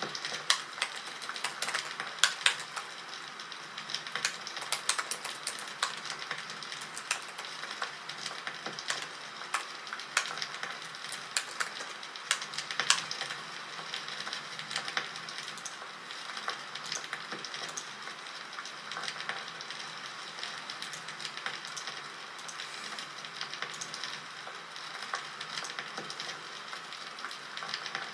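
Crackling campfire: a steady hiss with irregular sharp pops and snaps, some louder than others.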